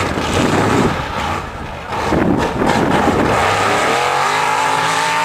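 Engine of a heavily modified 4x4 mud racing truck running hard and loud. It sounds rough at first, then climbs in pitch as it revs up from about halfway through.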